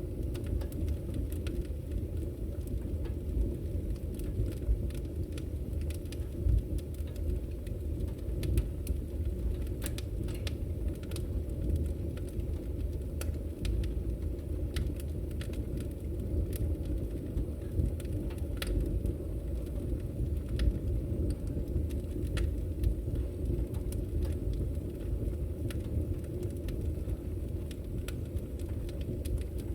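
Wood fire burning with a steady low rumble and frequent sharp crackles and pops from the burning wood.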